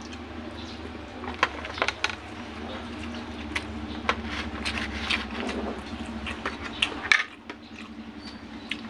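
A person eating with her fingers: chewing and lip-smacking, with many short sharp clicks. A steady low hum underneath drops away about seven seconds in.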